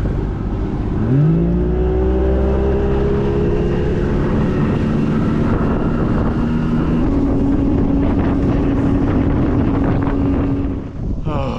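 Boat's outboard motor throttling up about a second in, its pitch rising quickly, then running steadily at speed with its pitch slowly creeping higher.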